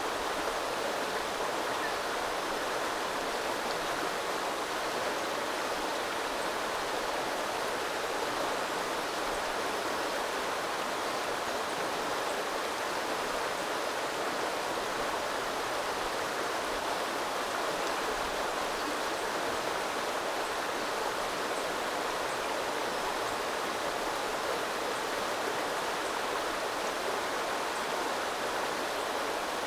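Small river flowing steadily, an even rushing of water over stones with no break or change.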